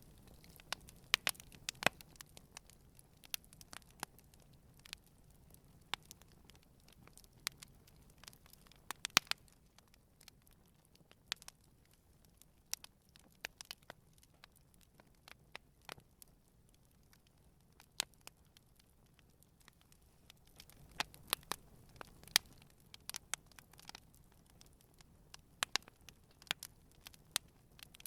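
Campfire burning gently: irregular crackles and sharp pops from the burning wood over a faint hiss, coming in small flurries now and then.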